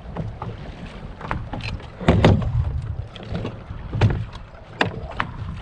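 Fishing boat running across the lake, with a rumbling wash, irregular knocks of the hull slapping on the chop, and wind on the microphone. The loudest knocks come about two and four seconds in.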